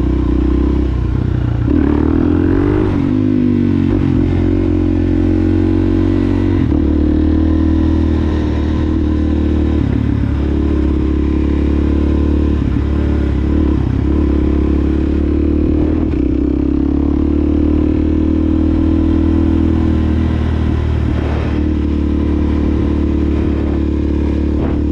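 2020 Suzuki DRZ400 SM's 398 cc single-cylinder four-stroke running loud through a Yoshimura exhaust at low road speed. The engine note rises and falls with the throttle, breaking off briefly several times as the rider shifts or rolls off.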